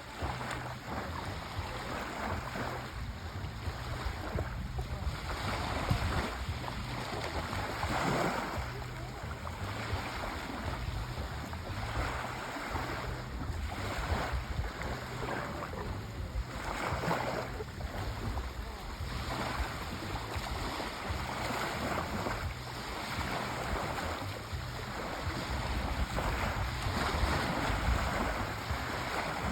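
Sea waves breaking and washing onto a shore, surging louder and falling back every few seconds over a steady low rumble.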